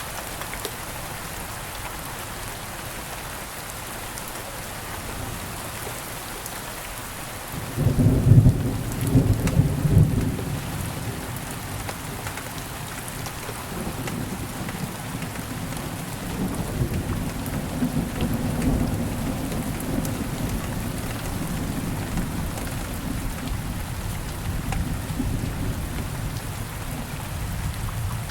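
Steady rain falling, with a sudden clap of thunder about eight seconds in and low rolling thunder through the second half.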